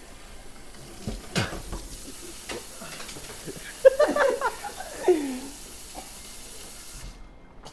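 Light clatter and rustling of food containers being handled, and a short pained vocal cry about four seconds in that falls in pitch at its end, from someone whose mouth is burning from Carolina Reaper spice.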